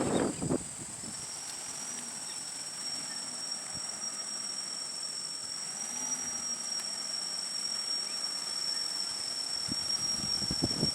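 Steady, high-pitched droning of insects in the surrounding forest, even and unbroken, with a second, higher band above it. Brief low rumbling noise sounds at the very start and again near the end.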